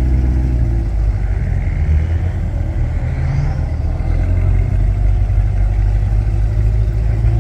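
A car engine running with a deep, loud rumble. It is a steady idle at first and turns rougher and noisier about a second in.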